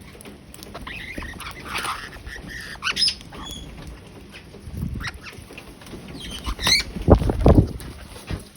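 Birds chirping and squeaking in short, scattered calls, some rising in pitch. A loud, low thumping rumble comes about seven seconds in.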